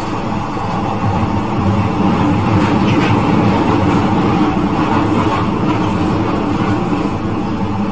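Glasgow Subway train running through the tunnel between stations, heard from inside the car: a loud, steady rumble of wheels on rail that grows a little louder about a second in.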